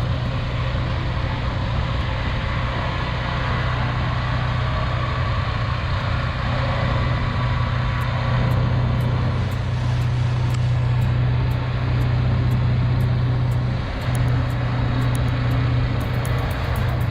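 Heavy haulage truck's engine running with a steady low drone, dipping briefly about 14 seconds in.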